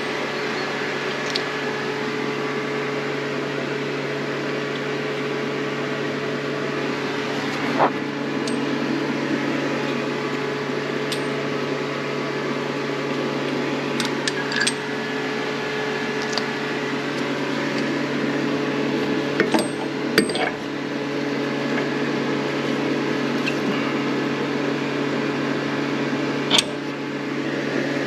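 A steady mechanical hum runs throughout, with a handful of sharp metallic clinks and knocks from hand tools at work on a pickup's front shock and control arm.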